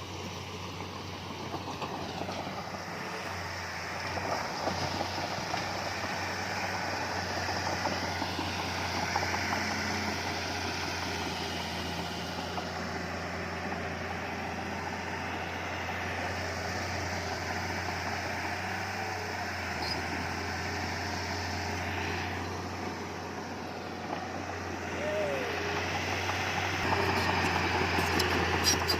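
Diesel engine of heavy earthmoving machinery running steadily, growing louder near the end.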